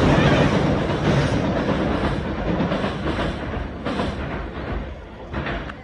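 Kintetsu limited express electric train rolling away, its wheels clacking over rail joints about once a second as the rumble fades steadily.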